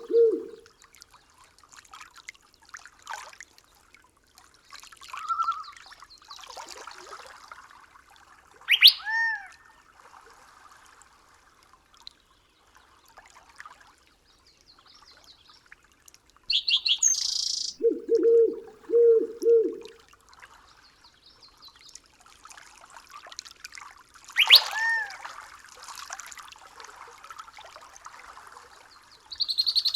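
Night forest ambience of bird calls. A sharp call sweeping quickly downward rings out twice, and a run of three low hoots comes about two-thirds of the way in, over a faint steady background.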